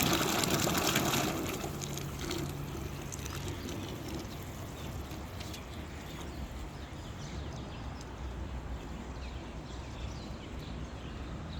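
A machine motor running, which cuts out about a second in, leaving a quieter low hum and faint clicks.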